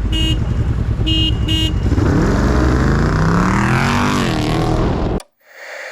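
Three short horn toots, then a vehicle engine accelerating hard, its pitch climbing, dipping once as it shifts, and climbing again before it cuts off suddenly about five seconds in.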